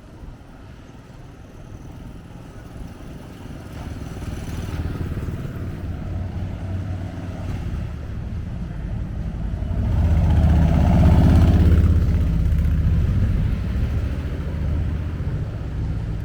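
A motor vehicle's engine running close by with a low hum, growing steadily louder and loudest about ten to twelve seconds in, then easing off only slightly.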